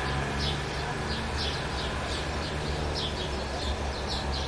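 Small birds chirping: short, high chirps about twice a second, over a low steady rumble.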